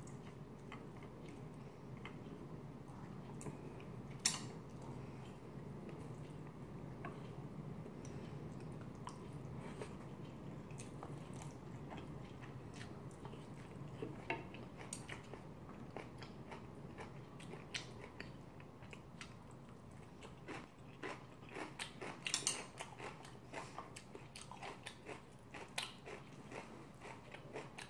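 Close-miked chewing and biting of seafood curry and rice, with scattered clicks and scrapes of a wooden spoon on a ceramic plate. One sharper click comes about four seconds in, and the clicks grow more frequent in the last several seconds.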